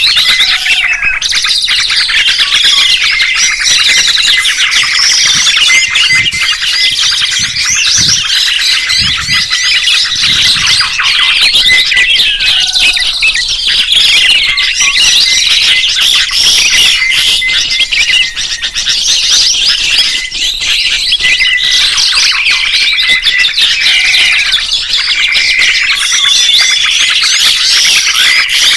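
Many birds chirping at once in a dense, loud, unbroken chorus of short calls and whistled notes overlapping one another.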